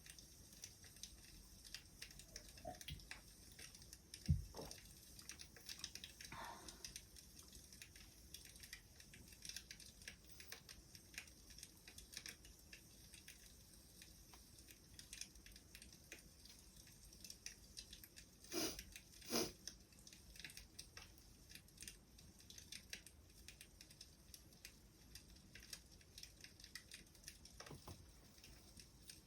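Faint wood fire crackling: a steady patter of small snaps, with a sharper pop about four seconds in and two louder pops close together around eighteen to nineteen seconds in.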